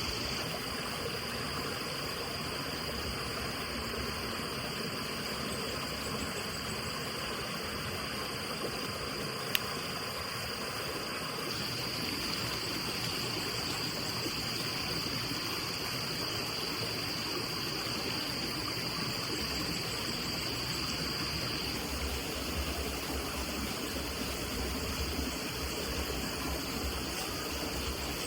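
Steady rushing noise like running water, with a thin high tone held above it and a single sharp click about nine and a half seconds in.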